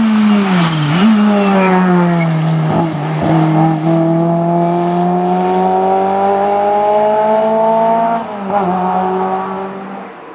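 Historic rally car's engine under hard throttle, its pitch dipping briefly about a second in, then climbing slowly through a long pull. It drops again at about eight seconds and fades away near the end.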